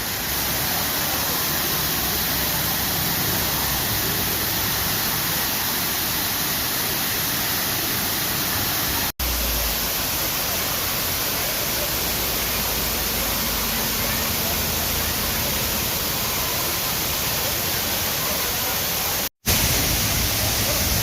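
Waterfall: a steady rush of falling water, cut off for an instant twice, about nine seconds in and again near the end.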